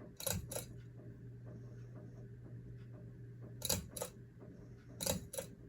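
Hunter Avignon ceiling fan's speed switch clicking three times, each a quick double click, as the fan is stepped to its second low speed, over a steady low hum from the fan motor.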